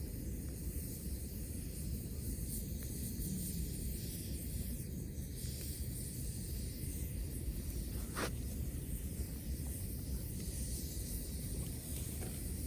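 Wood campfire burning with a steady hiss over a low rumble, and one sharp crack about eight seconds in.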